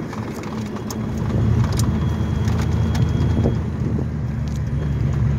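1985 Ford Mustang GT's 5.0-litre V8 running as the car drives slowly, heard from inside the car, its low engine note growing louder about a second in. The owner finds the automatic car rough to drive at low speed and says it needs a stall converter.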